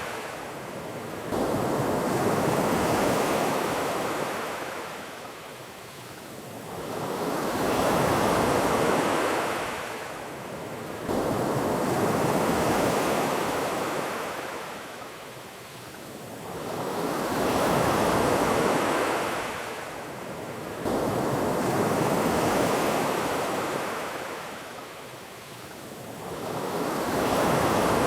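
Ocean waves breaking on a beach, surging and drawing back in slow swells about every five seconds; a few of the swells come in suddenly.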